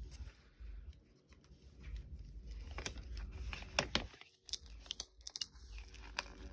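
Paper pages of a handmade altered book journal being turned and handled: crisp rustling and crinkling, with several sharp papery snaps scattered through.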